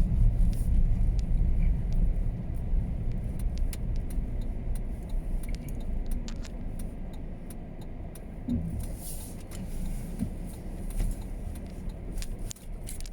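Car driving on a snow-covered road: a steady low road and engine rumble that slowly eases off, with scattered light clicks and rattles throughout.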